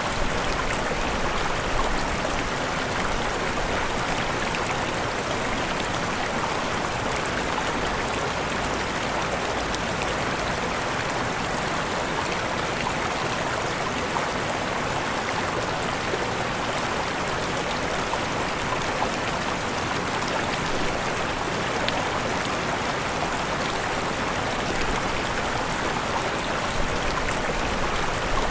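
Steady rush of a waterfall, falling water hissing evenly with no change.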